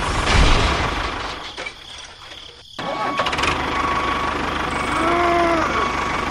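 Small engine running; the sound drops away for about a second near the middle, then comes back abruptly and runs steadily with an even low chugging rhythm.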